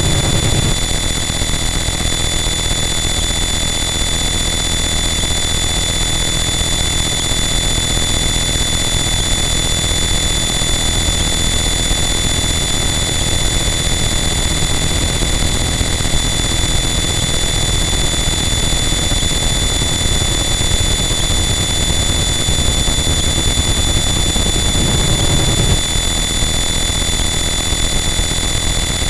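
Harsh noise wall: a loud, dense, unchanging wall of distorted static with steady high-pitched whining tones held over it, and a low rumble that swells briefly near the end.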